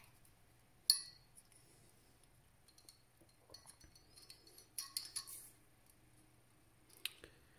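Light clicks and clinks of small computer hardware being handled, with one sharp click about a second in and a few quieter clusters of ticks after it.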